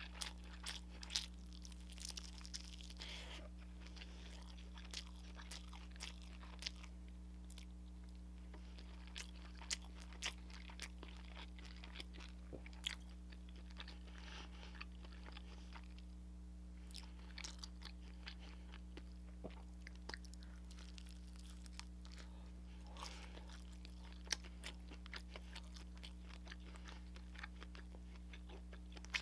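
Mouth chewing and crunching through crispy fried soy chicken, with many short, sharp crackles scattered throughout. A steady low hum sits underneath.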